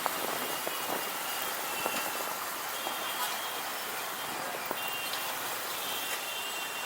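Steady rush of wind and road noise from a motorcycle riding through city traffic, with a few short clicks and faint brief high-pitched tones.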